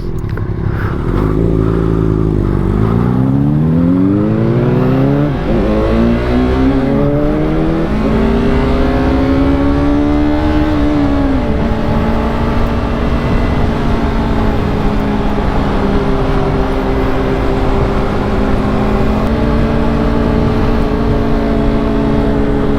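Yamaha R3 parallel-twin engine heard from the rider's seat under way. The revs drop about two seconds in, then climb for several seconds, fall back at a gear change and settle to a steady cruise, over constant wind and road noise.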